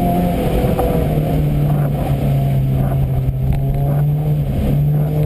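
Škoda Fabia 1.4 rally car's engine heard from inside the car under steady throttle. Its note dips slightly about a second in and then holds even, over tyre and road noise on a wet surface.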